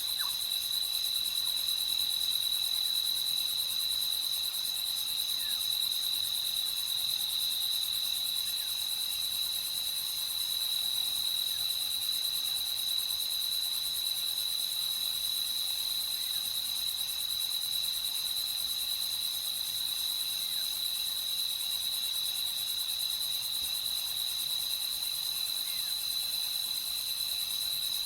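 A chorus of crickets trilling in an unbroken, steady, high-pitched drone.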